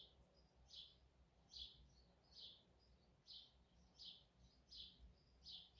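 Faint birdsong: a bird repeating a short, high chirp a little more than once a second, over near silence.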